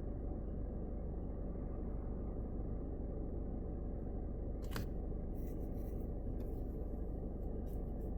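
Steady low rumble of a car driving on the highway: tyre and engine noise heard from inside the cabin. A sharp click comes a little past halfway, followed by a few faint ticks.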